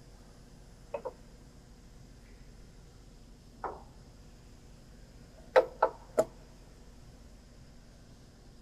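A few short clinks and knocks of metal parts being handled on a saw's blade arbor while an aluminum setup jig and the arbor nut are fitted. There is a single knock about a second in, another a little later, and the loudest three come in quick succession about two-thirds of the way through, over a faint steady machine hum.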